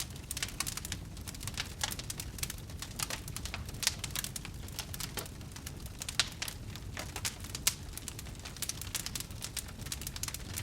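Campfire crackling: many irregular sharp pops and snaps over a low steady rumble, with a couple of louder pops about four and seven and a half seconds in.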